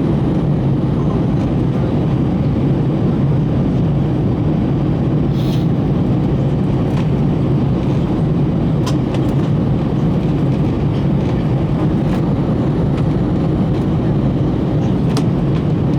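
Steady low rumble of engines and airflow inside the passenger cabin of an Airbus A321, with a few faint clicks.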